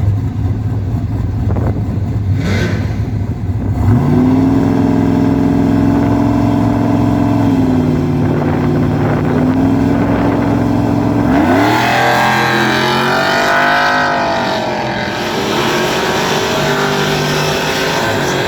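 Drag-racing pickup trucks run a quarter-mile pass. A low engine rumble at the line gives way about four seconds in to a launch at full throttle. The engine pitch climbs and holds high, with drops at the gear changes, then bends as the trucks go down the strip.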